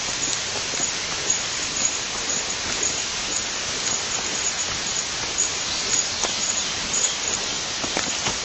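River water rushing steadily, an even hiss with a few faint scattered ticks.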